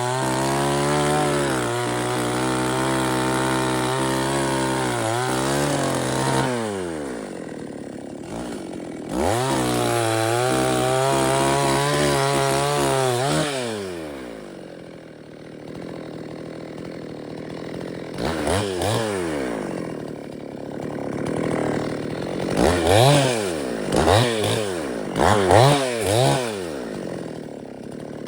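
Two-stroke chainsaw held at high revs for several seconds, dropping to idle, revved high again, then idling with a series of short throttle blips near the end.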